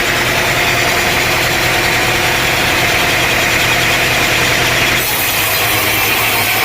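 An engine running steadily at low revs. The sound changes abruptly about five seconds in.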